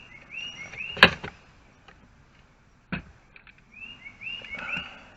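A small songbird chirping in two short runs of quick rising notes, interrupted by two sharp knocks, the first and louder about a second in, the second about three seconds in.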